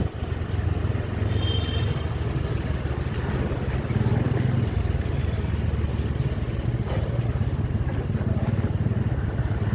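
Steady low rumble of road vehicle noise, with a brief faint high tone about one and a half seconds in.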